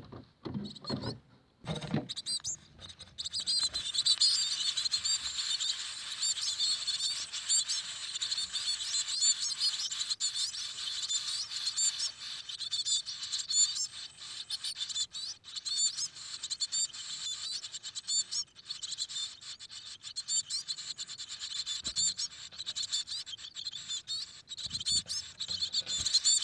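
Coal tit nestlings in a nest cavity inside a house wall, calling continuously with thin, high-pitched chirps, the begging of chicks waiting to be fed. A few soft knocks come just before the chirping starts, about two seconds in.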